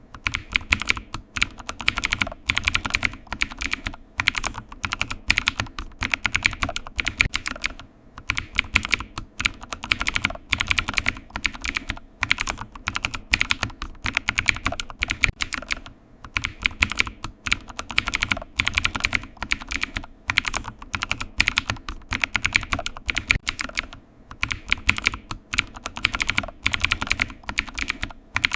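Computer keyboard typing: quick, continuous keystrokes with a brief pause about every four seconds.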